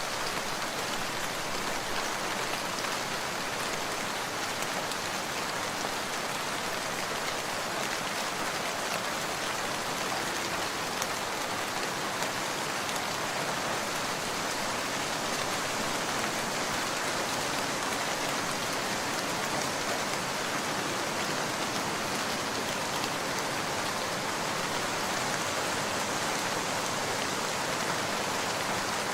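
Steady rain falling, a dense, even hiss of many drops that holds the same level throughout.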